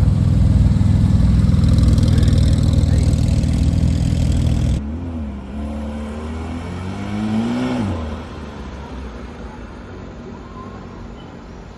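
Porsche sports car engine running loud and steady, then after an abrupt cut, two revs whose pitch rises and falls back, the second longer. After the second rev the engine sound drops away to a quieter steady level.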